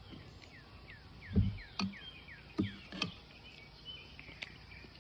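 Several sharp clicks and knocks, the loudest a dull thump about a second and a half in. Behind them a bird gives a quick run of short falling chirps.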